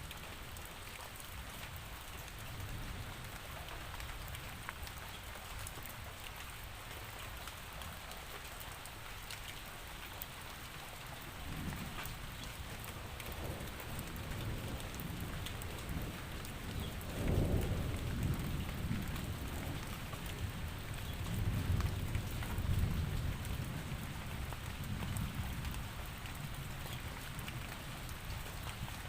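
Steady rain falling, with low rolling thunder that builds from about halfway through and is loudest a little past the middle and again near the three-quarter mark.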